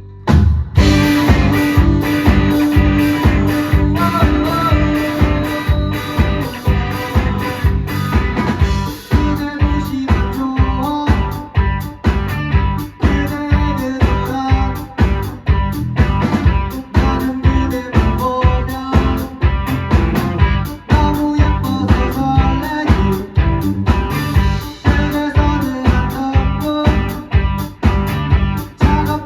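Rock band playing live, guitar and drum kit, with a steady beat. The full band comes in loud about half a second in, after a held note dies away.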